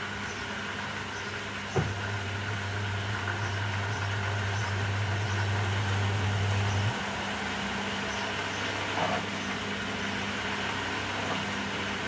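Samsung top-loading washing machine running its cycle with a steady mechanical noise. A low electric hum starts with a click about two seconds in and cuts off sharply about five seconds later.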